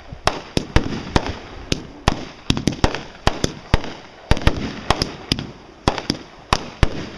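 Fireworks going off in rapid, irregular succession: a string of sharp bangs, about three a second, each followed by a short rumbling echo.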